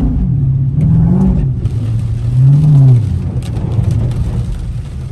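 Car engine revved in short bursts, its pitch rising and falling back three times.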